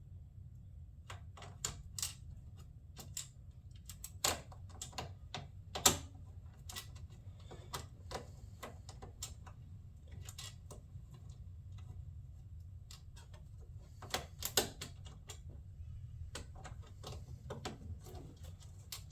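Irregular light clicks and taps of a small bolt and washer being handled and started into a plastic radiator shroud by hand, the loudest about six seconds in and twice around fourteen seconds in, over a low steady hum.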